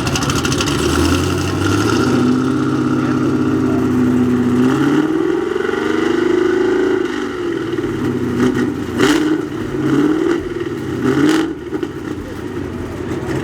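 GM LS/LT-platform V8 engine running through an aftermarket performance exhaust. The revs climb over the first few seconds, swell up and fall back about halfway through, then come three short sharp throttle blips near the end.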